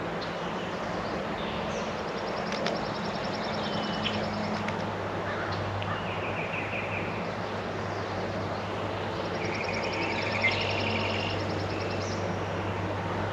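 Songbirds singing, with a high rapid trill twice and lower chattering phrases in between, over a steady low hum and a few sharp taps.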